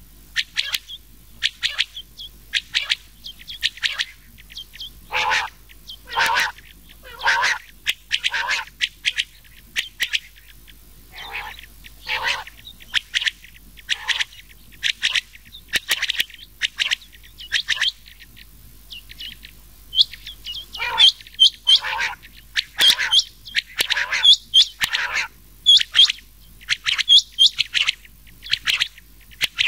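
Recorded rain quail and quail calls mixed into a hunting lure track: short call notes repeated in quick series, coming thicker and higher-pitched in the second half.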